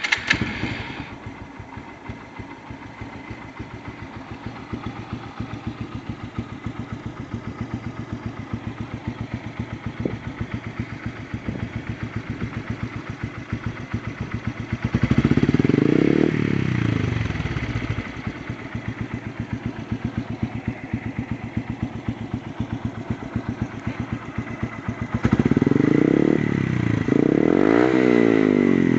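Yamaha Byson (FZ16) single-cylinder engine through a TNHM aftermarket exhaust, idling with an even putter. It is revved once about halfway through and twice more near the end, the pitch rising and falling with each rev.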